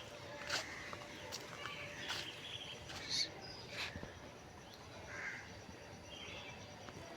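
Birds calling now and then over a faint outdoor background, with a few sharp light clicks or taps in between.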